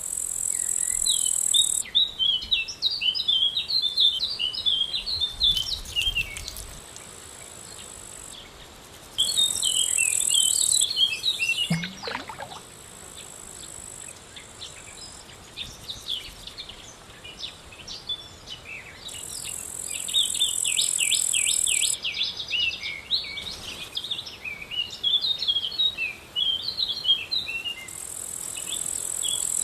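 Outdoor chorus of small birds chirping rapidly, with a high insect buzz, cicadas or crickets, that starts and stops in stretches of a few seconds. About twelve seconds in, one long whistle slides down in pitch.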